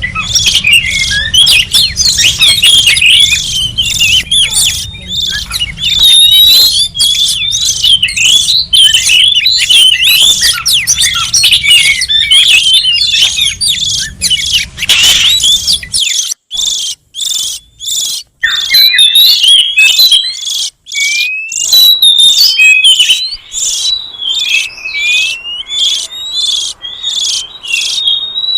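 Oriental magpie-robin song: a rapid, continuous run of sharp chirps and quick rising and falling whistles, with a few short breaks past the middle. A low hum underlies the first half and then stops.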